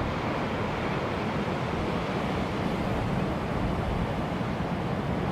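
Steady rushing, rumbling noise, heaviest in the low end, with no distinct events.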